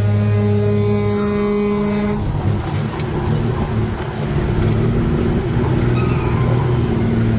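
Truck running on the road, a wavering low engine and road rumble. A steady droning tone sits over it for the first two seconds and cuts off suddenly.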